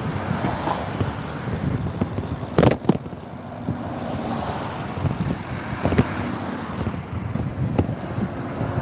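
Motorbike riding along: engine running under a rumble of wind on the microphone, with a sharp knock about two and a half seconds in and another about six seconds in.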